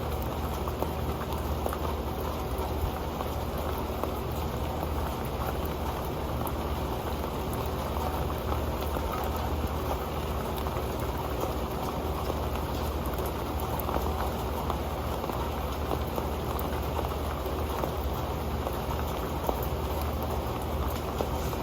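Steady rain falling onto an old metal pan: a dense, even patter of drops with many small ticks, unchanging throughout.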